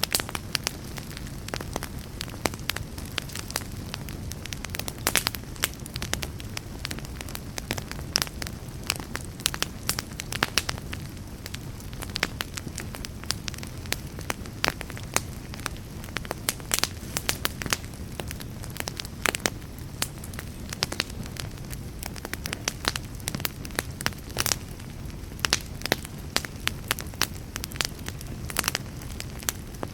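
Fire crackling: many sharp irregular pops and snaps over a steady low rumble of burning.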